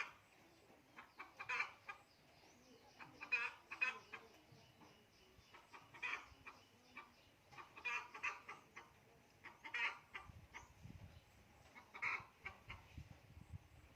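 Chickens clucking faintly in short bursts every second or two.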